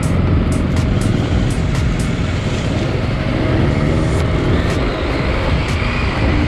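KTM 890 Adventure R parallel-twin engine running under load on a dirt trail, with wind and tyre noise, and the engine pitch climbing as it revs up about three seconds in. A quick run of sharp ticks sounds in the first couple of seconds.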